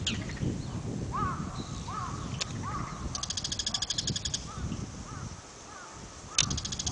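Wild birds calling, several at once: a few short arched calls about half a second apart, then a fast, buzzy rattling trill lasting about a second, heard again near the end, over a low background rumble.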